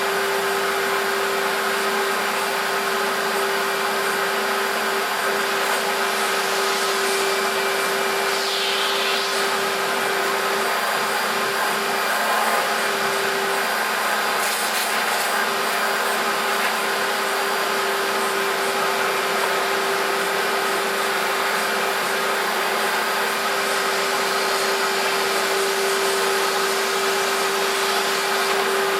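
Electrolux Contour Z1501 upright vacuum cleaner's 1300 W motor running steadily: a constant hum over the rush of air.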